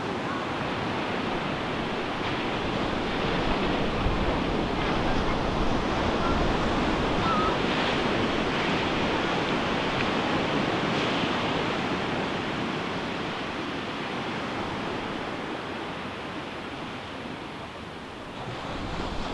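Ocean surf breaking and washing up the beach: a steady rush of waves that swells over the first few seconds, slowly eases off, and builds again near the end.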